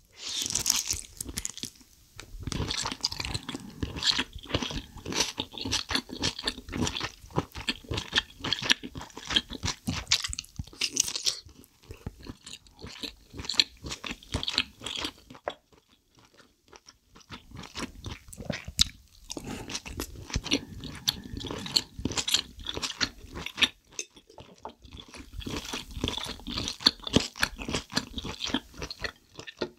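Close-miked chewing and biting of soy-sauce-marinated raw seafood, beginning with a bite of scored abalone: dense, wet, crunchy mouth sounds in several runs with brief pauses between them.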